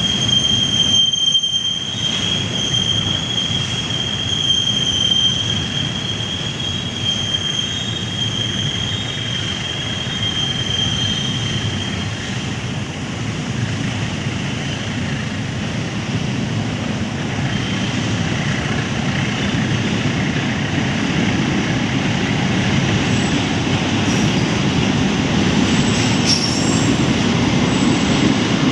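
Train running through the station: wheels rumbling on the rails, with a steady high-pitched wheel squeal that fades out about twelve seconds in, and the rumble growing louder toward the end.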